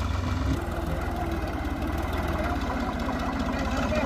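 Sonalika tractor's diesel engine running steadily at idle, a low even chugging.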